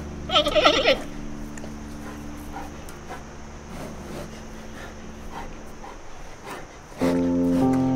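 A short, wavering animal whimper about half a second in, followed by faint scattered clicks and rustles. Soft piano music comes in near the end.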